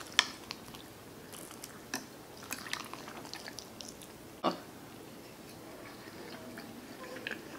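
Close-miked chewing of baked macaroni and cheese with wet mouth clicks, and a metal utensil scooping in the glass baking dish. Sharp clinks come about a quarter second in and again a little past halfway.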